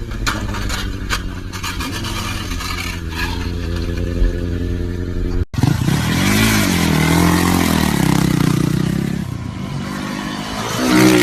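Motorcycle engines in two clips: first an engine running steadily with a few sharp clattering knocks over it, then, after a sudden cut about five and a half seconds in, an engine revving up and down repeatedly.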